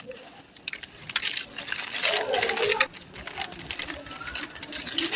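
Dry, brittle chunks crushed and crumbled by hand, a dense crackly crunching with many sharp little clicks. It gets louder around the middle.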